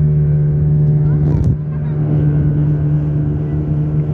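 An engine running steadily at an even speed, with a steady low hum, as heard on board during a ride. A brief irregular sound comes about a second and a half in.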